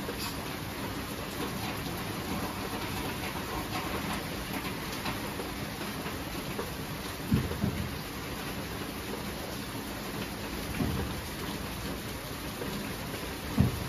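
Steady heavy rain falling, with three short low thumps about seven, eleven and fourteen seconds in.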